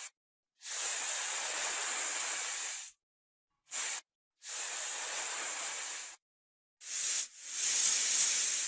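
Snake hissing: five breathy hisses, three of about two seconds and two brief ones, each cut off into dead silence.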